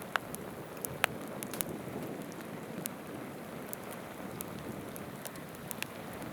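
Wood campfire crackling, with irregular sharp pops (the loudest about a second in), over the steady rush of a river flowing over stones.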